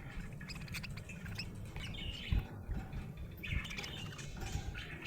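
Budgerigar chirping and chattering in short, scattered calls over a low background rumble, with a brief thump a little before halfway.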